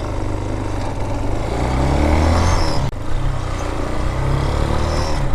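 Air-cooled Vitacci Raven 250 dirt bike engine pulling away, its pitch rising for about two seconds, with a brief drop about three seconds in before it pulls again.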